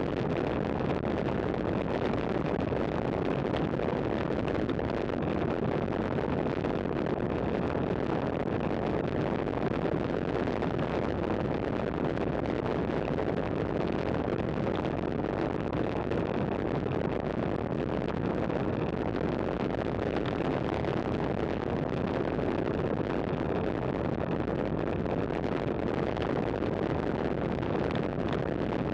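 Steady wind rush and road noise on a bike-mounted camera's microphone while riding at speed in a group cycling ride, with no change or break.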